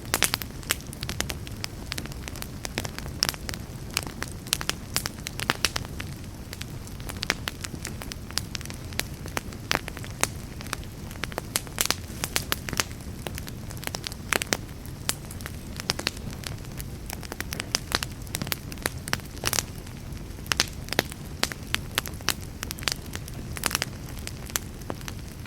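Wood fire in a fireplace crackling and popping, with many sharp irregular pops over a steady low rumble of the flames.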